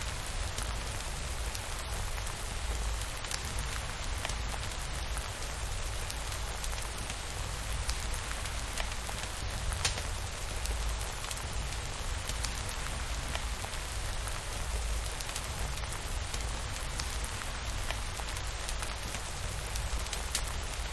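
Steady rainfall, an even hiss with scattered sharp drop ticks and a constant low rumble underneath.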